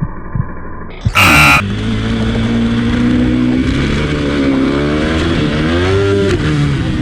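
Dirt bike engine running and revving, its pitch rising and falling. It follows a low heartbeat-like thumping and a short, loud burst about a second in.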